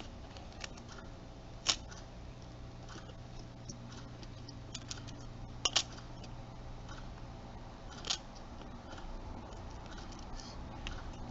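Light clicks and taps of small plastic parts being handled while easing a flex cable out of a camcorder's hinge, over a low steady hum. The sharpest click comes about two seconds in, a quick double click near the middle, and another around eight seconds.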